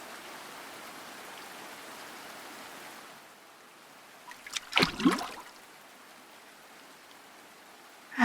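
Bath water: a steady flow of running water that stops about three seconds in, then a short burst of splashing and sloshing about five seconds in, as of someone getting into the bath.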